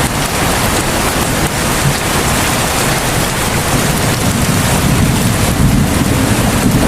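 Heavy rain falling steadily, a dense even hiss of drops. A low rumble grows under it in the second half.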